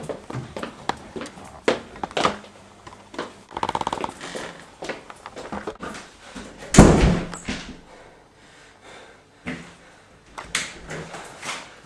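A series of knocks and clatters, with a rapid rattling stretch about four seconds in and a loud, heavy thud about seven seconds in.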